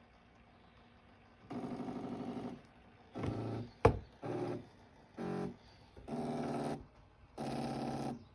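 Stepper motor driven by an Arduino Uno, turning clockwise at its first speed level. It hums at a steady pitch in six short runs with pauses between them, and there is one sharp click about four seconds in.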